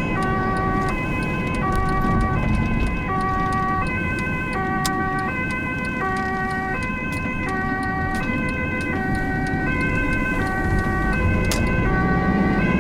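Ambulance two-tone siren sounding its steady high-low alternation, about one high-low cycle a second, over the low rumble of the ambulance's engine and tyres on the road.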